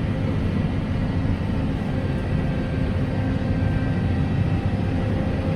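Self-propelled crop sprayer running steadily while spraying, heard as an even engine and machine drone with a low hum.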